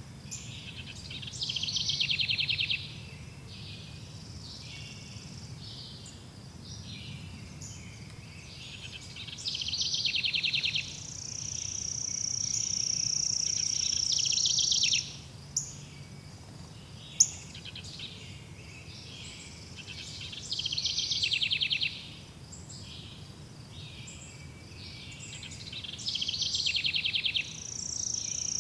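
Forest ambience of songbirds chirping over a steady low rumble, with a loud rapid trilling song about a second and a half long that comes back four times. A steady high-pitched buzz runs for a few seconds in the middle, and two sharp clicks follow it.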